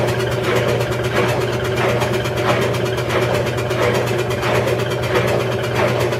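Maytag Centennial top-load washing machine running its wash cycle with a steady low hum and a rhythmic noise pulsing about three times every two seconds. This is the very terrible noise when washing that the owner is trying to fix.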